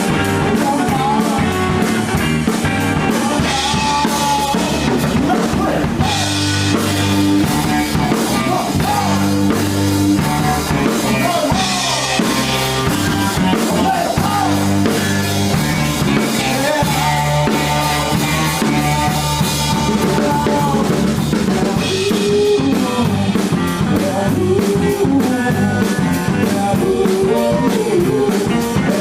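Rock band playing live, the drum kit driving the beat under bass and other instruments in a passage without transcribed words.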